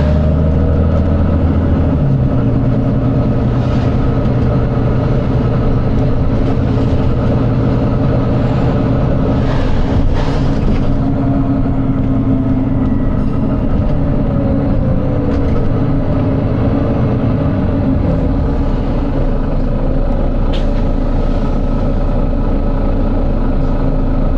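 Volvo B9TL bus's six-cylinder diesel engine running under way, its note dropping about two seconds in, with a short hiss of air about ten seconds in.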